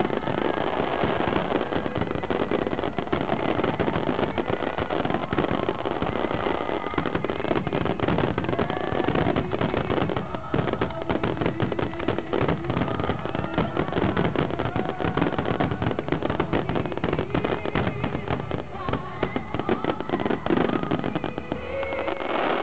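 Aerial fireworks bursting and crackling in a dense, continuous barrage, with short whistling glides mixed in, over music.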